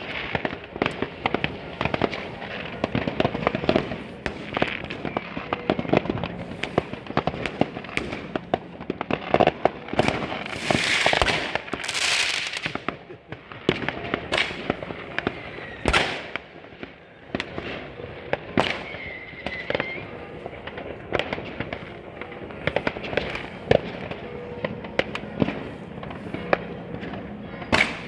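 Fireworks and firecrackers going off all around in a dense, irregular run of sharp bangs and crackles. A louder hissing burst comes about eleven to twelve seconds in.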